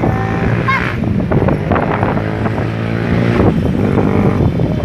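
Road traffic: the engine of a motor vehicle running close by, its pitch dropping as it passes about three seconds in.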